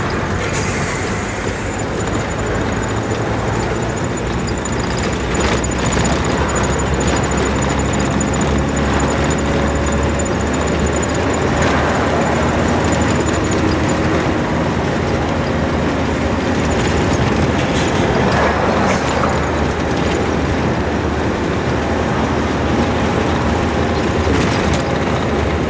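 Steady engine and tyre noise of road traffic while driving, with a thin high whine during the first half.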